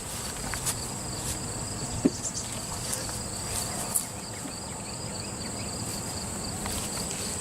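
Honey bees buzzing around an open hive under a steady high-pitched insect chorus, with a few light knocks as hive boxes are handled; the sharpest knock comes about two seconds in.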